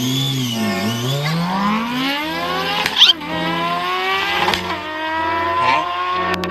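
Motorcycle engine accelerating hard through the gears: its pitch climbs steadily, drops at a gear change about three seconds in, then climbs again.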